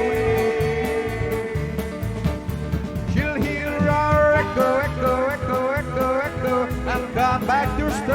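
Live country band playing: a long held note for the first few seconds, then a lead melody of sliding, bending notes over bass and a steady drum beat.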